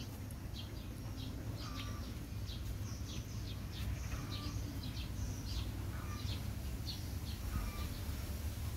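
Small birds chirping: many short, high chirps in quick succession over a low, steady rumble.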